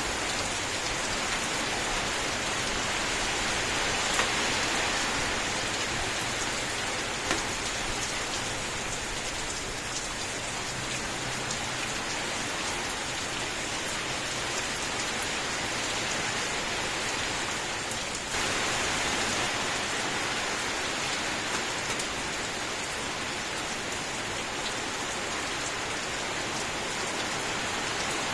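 Steady rain: an even hiss of rainfall dotted with scattered sharper drop ticks. It grows a little louder suddenly about two-thirds of the way through.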